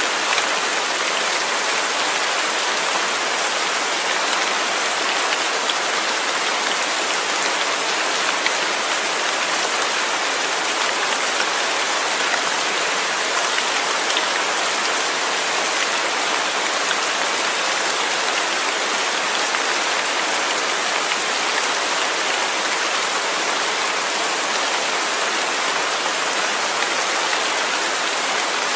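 Steady rain falling, a dense even hiss of drops on a surface, unchanging in strength.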